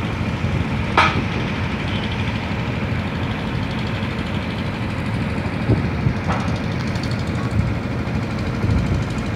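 Heavy machinery engine running steadily while the Sany SR150C rotary drilling rig travels on its tracks, the sound mostly low-pitched. A sharp short metallic-sounding knock comes about a second in, with fainter ones around six seconds.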